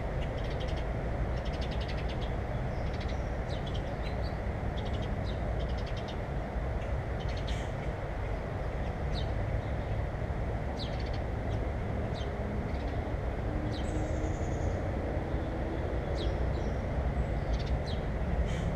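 Small birds at a bird feeder calling in short, high chirps, with a few quick trills in the first seconds, over a steady low rumble that is louder than the birds.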